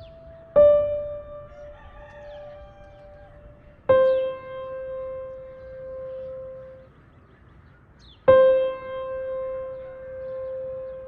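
Slow background piano music: single sustained notes struck about every four seconds, each ringing on and slowly fading.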